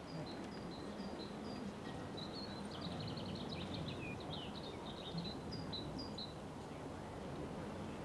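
Small birds chirping, a quick run of short high chirps for the first six seconds or so, over a steady low background rumble.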